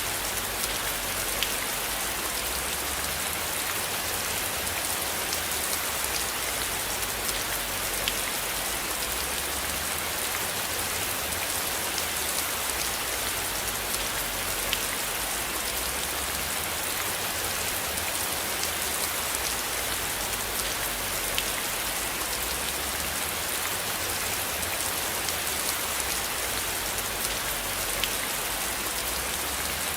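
Steady rain falling on a surface: an even hiss with scattered faint drop ticks and a low rumble underneath.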